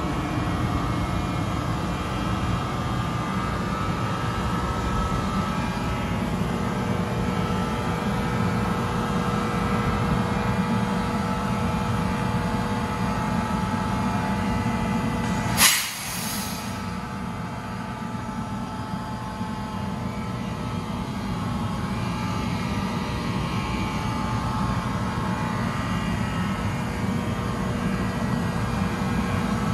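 NJ Transit commuter train running, a steady rumble with a steady whine held under it. A single sharp click cuts in about halfway through, and the sound is slightly quieter just after it.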